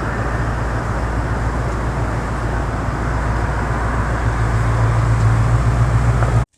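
Steady low rumble of engine and road noise heard from inside a moving car's cabin, cutting off suddenly near the end.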